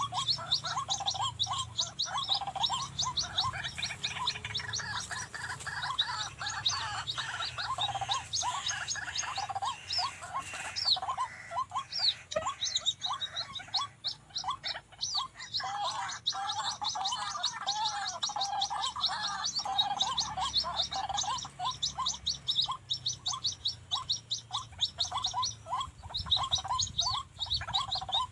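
White-breasted waterhens calling: a dense run of rapidly repeated croaking notes from more than one bird overlapping, the waterhens answering a decoy.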